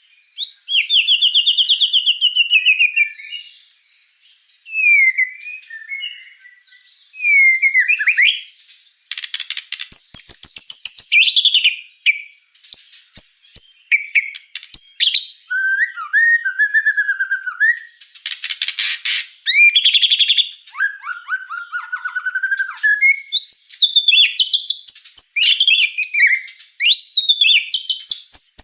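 White-rumped shama (murai batu) singing in full, vigorous song. It delivers a long run of varied phrases, clear gliding whistles mixed with fast rattling trills, with only short pauses between them.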